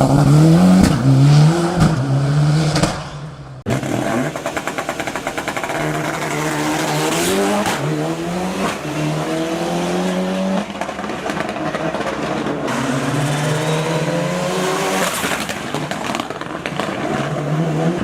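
Turbocharged four-cylinder engine of a Mitsubishi Lancer Evolution VI hill-climb car revving hard, its pitch climbing and dropping again and again as it accelerates and shifts through the gears. The sound falls away briefly about three seconds in, then picks up again.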